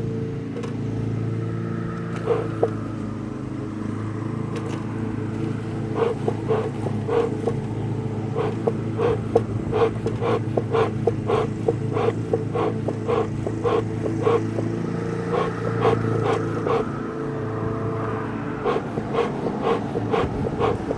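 Bee smoker bellows being pumped in a quick, steady rhythm of short puffs, starting about six seconds in and pausing briefly before the end, over a steady low hum.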